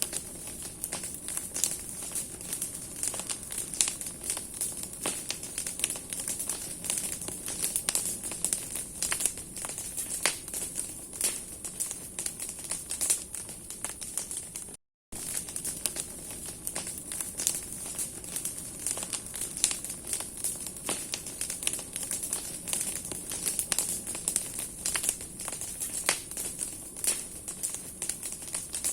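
Large bonfire of burning branches: the wood crackles in many sharp, irregular snaps and pops over a steady high hiss. The sound drops out for a moment about halfway through.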